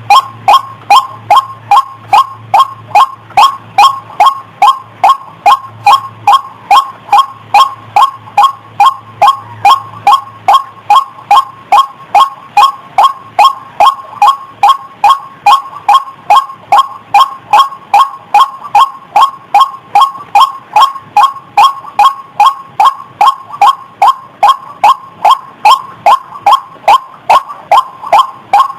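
White-breasted waterhen (ruak-ruak) calling over and over in a steady, even rhythm of about two short croaking notes a second.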